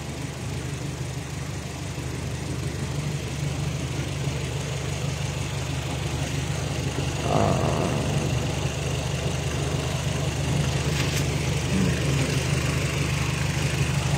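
Car engine idling steadily, with a brief short sound about seven seconds in and a sharp click about four seconds later.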